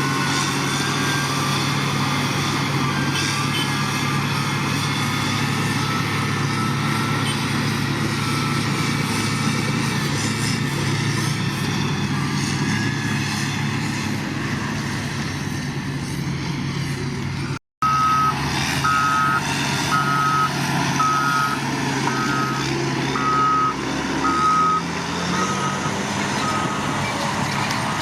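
Heavy construction machine's diesel engine running steadily. After a sudden cut, a reversing alarm beeps about once a second over the engine.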